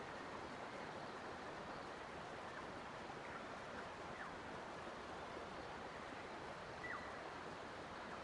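Steady rush of running water, with a few faint, brief bird chirps over it.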